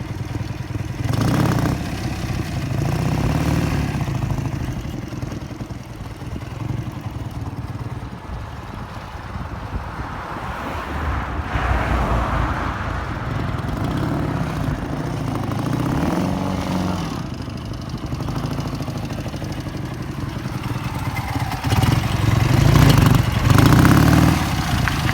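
Ural motorcycle with an 800 cc Dnepr flat-twin engine, revved up and down over and over, loudest near the end.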